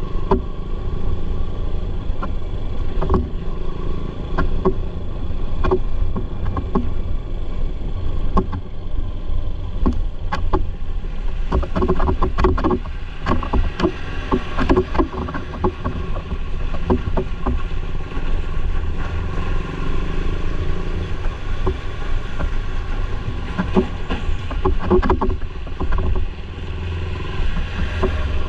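Motorcycle riding along a road, heard from on board: a steady low rumble of wind and road noise with frequent short knocks and rattles.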